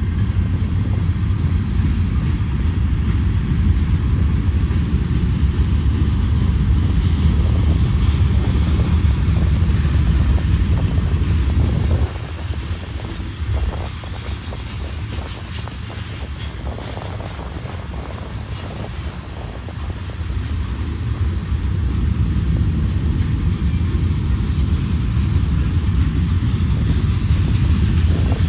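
Diesel locomotives on an eastbound freight train working upgrade, a steady low engine rumble. It eases off about twelve seconds in and builds again over the last several seconds.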